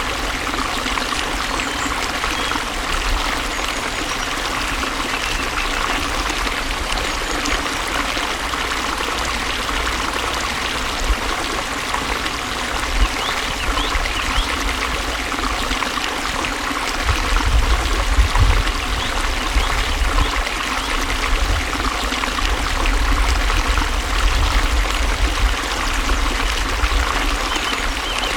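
Water flowing steadily with a continuous rushing and trickling. A low rumble under it comes and goes, stronger in the second half.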